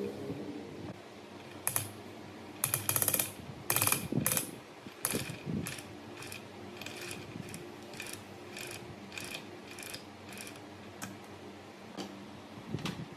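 Sharp metallic mechanical clicking from hand work on metal parts, with quick runs of clicks about three to four seconds in, then single clicks roughly every half second.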